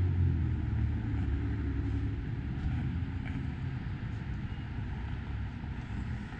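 A motor vehicle's engine hum, low and pitched, fading away over the first few seconds, over a steady low street rumble.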